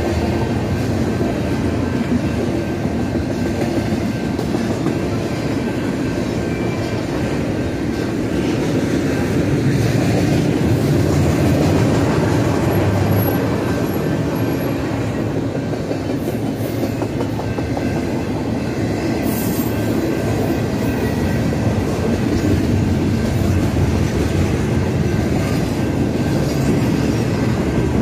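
Double-stack intermodal container cars of a freight train rolling past, a steady rumble of steel wheels on the rails.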